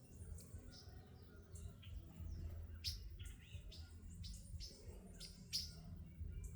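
Small birds chirping and calling: many short, high chirps scattered throughout, over a steady low rumble.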